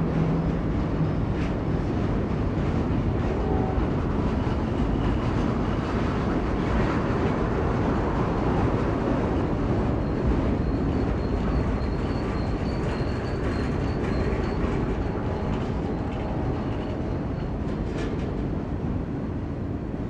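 Freight train rolling past, its wheels running on the rails in a steady, loud rumble that eases slightly near the end. A faint high wavering whine rises over it about halfway through.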